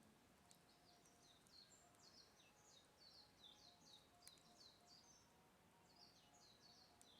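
Faint songbird singing a long run of quick, high chirping notes, each one falling in pitch, starting about half a second in.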